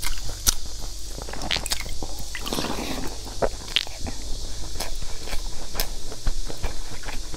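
Close-up chewing of soft sponge cake soaked in milk: wet, squishy mouth sounds with a string of short clicks.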